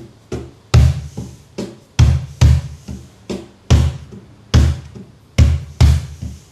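Cajon played with alternating hands in a repeating pattern of deep bass strokes and lighter, sharper tip strokes (bass, tip, tip, bass, bass), at a steady moderate tempo.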